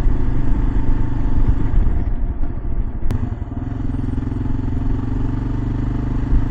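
Kawasaki KLR 650 single-cylinder engine running under way, with road and wind noise. A single sharp click comes about three seconds in, after which the wind eases and the engine note holds steady.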